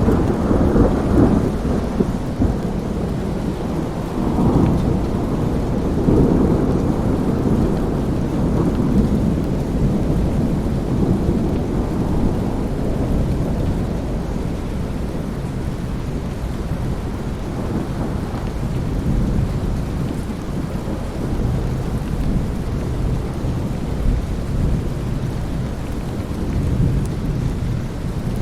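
Thunderstorm: steady rain with low rolling thunder that swells and fades several times, strongest near the start and again about four to seven seconds in.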